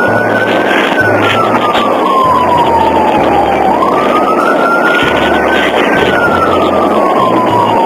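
Police siren on its wail setting, a single tone rising and falling slowly about every four and a half seconds, over steady road and engine noise.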